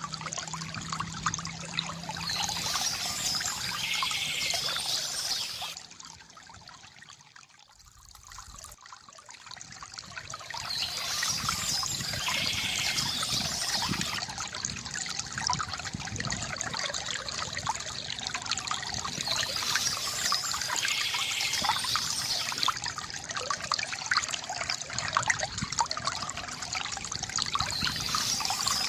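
Water trickling and splashing from a bamboo fountain, with bird chirps recurring about every eight seconds. The water sound drops away about six seconds in and swells back a few seconds later.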